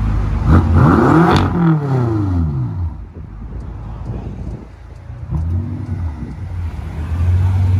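BMW F10 M5's twin-turbo V8 with its mufflers deleted, revved once: the exhaust note climbs and falls back over about two seconds, then settles to a steady idle hum.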